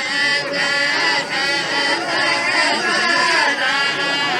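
Many men chanting together in a traditional tribal chant of the Khawlan bin Amer tribes (tarouq), their voices overlapping in a wavering, unbroken melody.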